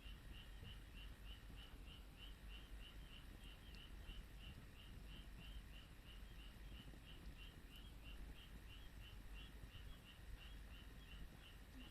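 Faint high-pitched chirping repeating evenly about three times a second, over a low rumble, with a few faint crackles.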